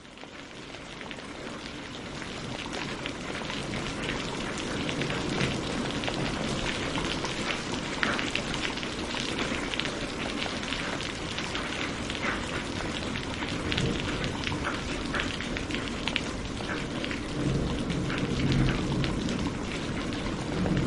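Steady rain with the patter of many drops striking a surface, fading in over the first few seconds. A low rumble comes in near the end.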